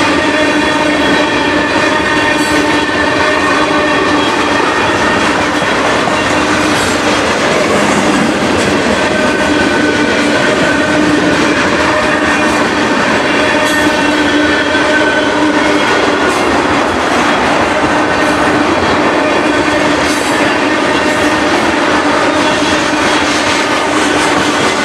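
Freight train of tank cars rolling past close by: a loud, steady rumble of steel wheels on the rails with clicking over the joints, and a steady metallic squeal from the wheels running through it.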